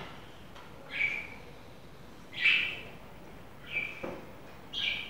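A bird giving short calls, four in a row about a second apart, the loudest about halfway through.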